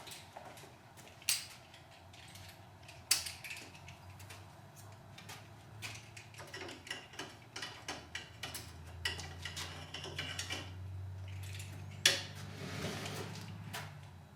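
Tie-down strap buckles and hardware clicking and rattling as a kayak is strapped down to a car roof, with a few sharper knocks among them.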